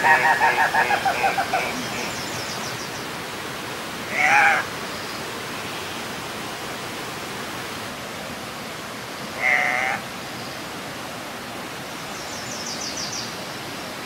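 Andean cock-of-the-rock calling: a rapid stuttering series of squawks that fades out in the first two seconds, then two single short squawks about four and nine and a half seconds in. Twice a small bird gives a brief high trill, and a steady hiss runs underneath.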